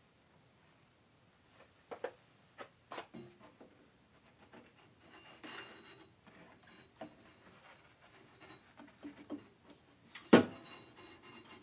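Scattered clicks and knocks of hands changing the sanding belt on an Origin Blade Maker belt sander, with a brief rustle near the middle and one loud knock about ten seconds in. The sander is not running.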